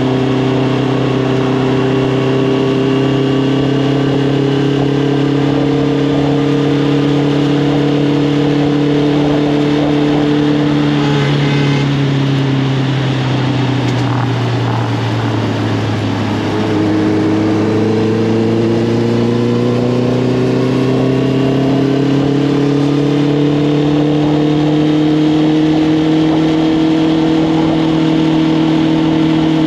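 Honda CB650R's inline-four engine through an Arrow Thunder full exhaust system, riding along under steady throttle with the pitch slowly rising. About 11 seconds in it eases off and the pitch falls for several seconds, then it builds steadily again.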